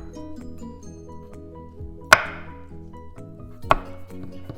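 A kitchen knife chopping crushed garlic on a cutting board: two sharp chops about two seconds and three and a half seconds in, then a few lighter taps near the end, over background music.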